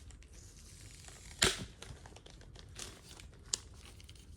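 Comic book blind bag packaging being handled and opened: a steady crinkling with one loud crackling tear about a second and a half in and a shorter sharp crackle near the end.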